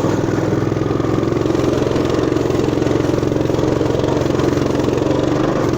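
Motoland RT200 mini all-terrain vehicle's engine running steadily at an even pitch as it is ridden through deep mud.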